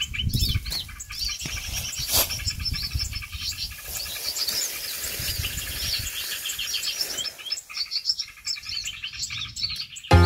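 Many small songbirds chirping and twittering at once, with dense, overlapping high calls repeating throughout. A single sharp knock sounds about two seconds in.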